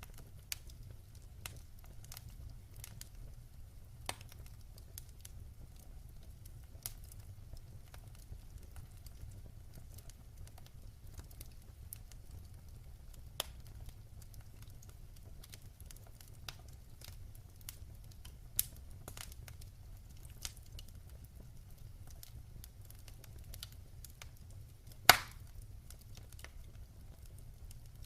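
Wood fire in a fireplace crackling, with scattered sharp pops about every second and one loud pop near the end, over a steady low rumble.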